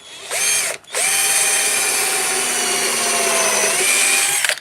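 Electric drill running in two goes: a short spin-up, then a longer steady whine of about three and a half seconds that dips slightly in pitch near the end as it works into the wood, then stops.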